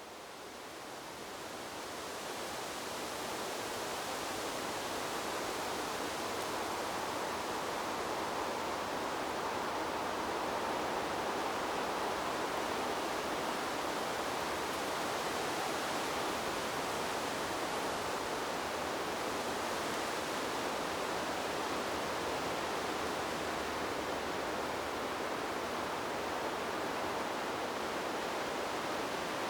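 Wind blowing through trees as a steady, even hiss with no distinct gusts. It fades in from near silence over the first few seconds, then holds level.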